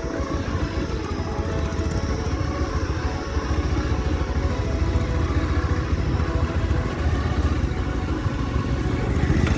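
Motorcycle engine running under way, a dense low rumble with rapid pulsing, getting slightly louder in the first second.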